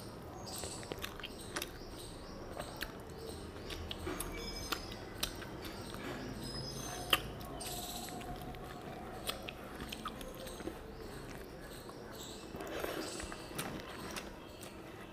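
Close-up chewing and wet mouth clicks of a person eating a mouthful of rice and fish curry, with fingers mixing rice against a banana leaf near the end.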